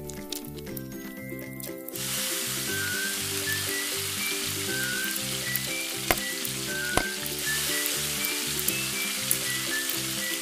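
A small beef patty frying in hot oil in a miniature steel wok, sizzling steadily from about two seconds in as it meets the oil. Two sharp clicks of the metal tongs against the pan come near the middle. Background music plays throughout.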